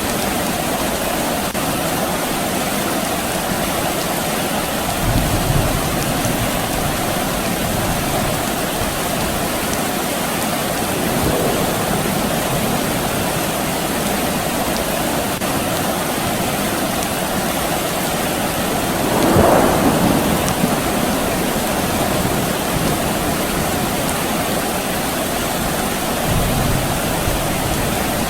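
Steady rain falling, a continuous even hiss, with low rumbles of distant thunder swelling in a few times, the loudest about two-thirds of the way through.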